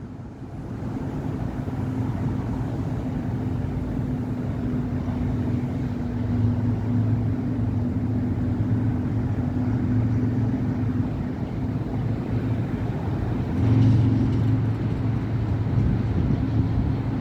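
City avenue traffic: a steady wash of passing cars and buses with a low engine hum underneath. One vehicle gets louder near the end.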